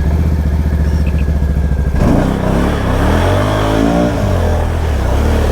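Can-Am Outlander ATV engine running just after being started, then revved up and down from about two seconds in.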